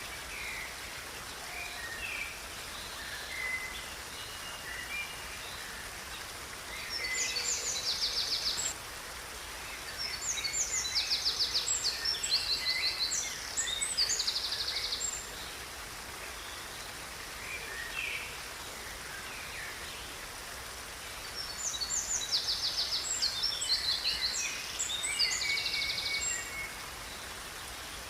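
Songbirds singing over a steady hiss of falling or running water, with scattered short calls and three louder bouts of fast, high trills.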